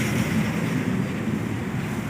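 Motor vehicle engine running, a low steady drone with road or wind noise over it.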